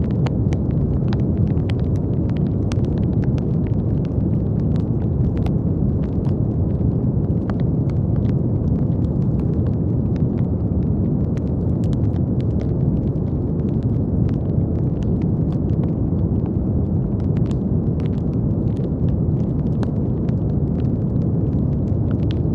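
Steady brown noise, a deep even rumble-like hiss weighted toward the low end, with faint scattered crackling clicks throughout.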